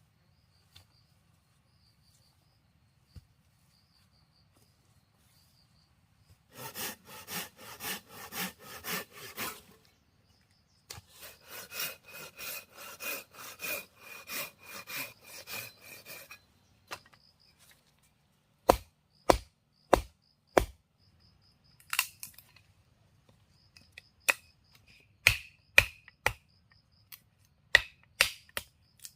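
Saw cutting through wood in two runs of quick back-and-forth strokes, about three a second, followed by a string of sharp, irregular knocks on wood. Crickets chirp faintly in the quiet opening.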